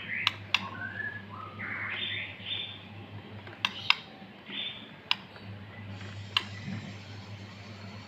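Male white-rumped shama singing short whistled phrases, with several sharp clicks among them. The singing thins out after about five seconds, leaving a low steady hum.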